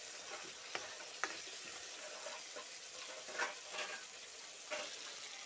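Chicken pieces and okra frying in metal kadhais, a steady sizzle, with several clicks and scrapes of a metal ladle stirring against the pan.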